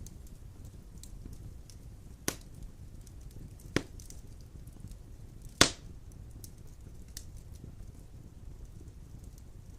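Wood fire burning in a stone fireplace: a low steady rumble of flames with light crackling, and three sharp pops of burning logs, the loudest a little past halfway.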